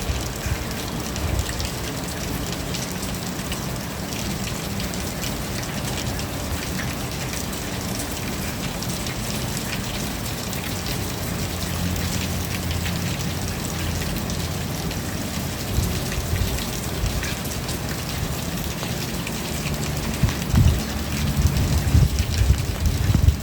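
Steady rain falling, with many distinct drops striking surfaces. Under it runs a low rumble that swells in uneven bursts near the end.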